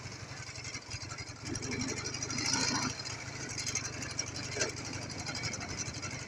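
Ural motorcycle's flat-twin engine running with a steady low hum, with a louder swell of noise about one and a half to three seconds in.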